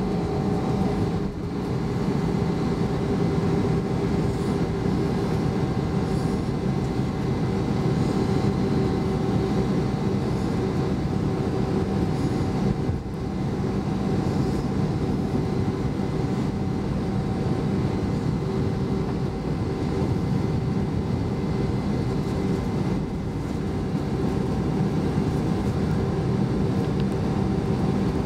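Steady cabin noise inside an Airbus A320 with its IAE V2500 engines running, a constant rumble with a few steady hums on top.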